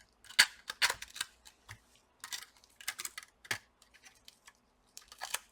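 Irregular sharp clicks and short scrapes of laptop parts being handled and fitted: the charging port and system board sliding into place in the plastic bottom case.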